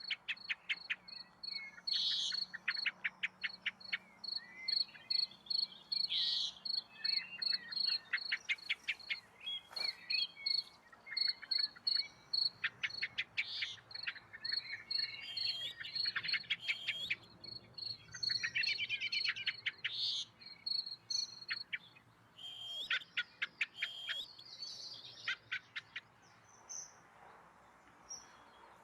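Songbirds singing in rapid trills and twittering phrases. Under them runs a steady, high-pitched pulsing note, and the birdsong dies away shortly before the end.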